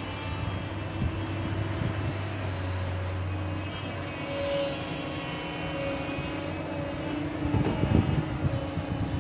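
Heavy diesel engine running steadily at a soil-loading site, with a louder, rougher rumble for about a second near the end.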